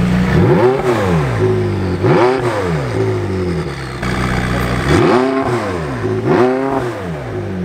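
McLaren 675LT Spider's 3.8-litre twin-turbo V8 idling and blipped four times, in two pairs: each rev rises sharply and falls straight back to idle.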